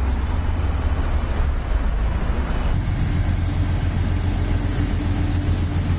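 Loud, steady low rumble of a vehicle in motion, with a low hum that firms up about three seconds in.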